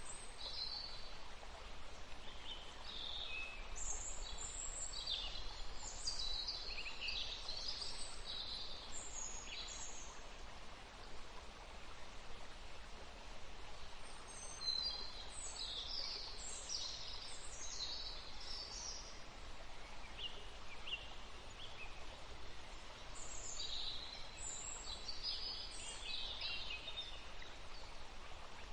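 Small songbirds chirping in bouts of quick, high-pitched notes, three flurries several seconds apart, over steady outdoor background noise.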